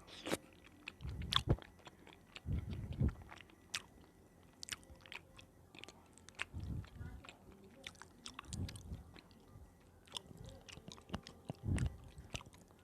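Close-miked mouth sounds of someone chewing snack food: many sharp crisp clicks with a soft low thud every few seconds.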